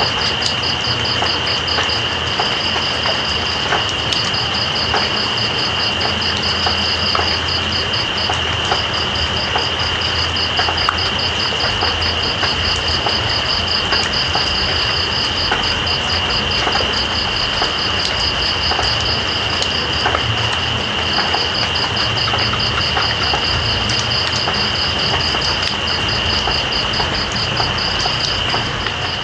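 Steady rain with night insects calling over it: one holds a continuous high trill while another gives a rapid pulsed trill that breaks off briefly a few times. Scattered light ticks sound through the rain.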